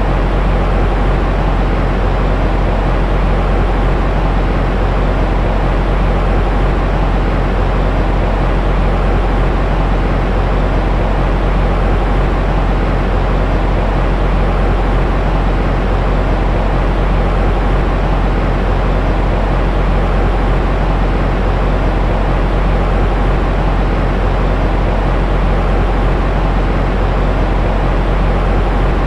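Steady white-noise-style sleep sound for soothing a baby: an even, unchanging hiss weighted toward the low end, deep rather than bright, with a faint hum in it.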